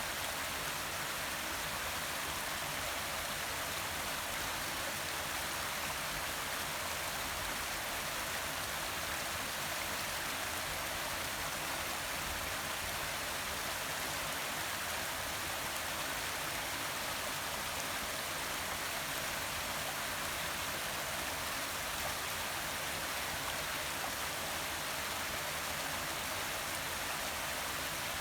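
Forest waterfall: steady, unbroken rush of falling water.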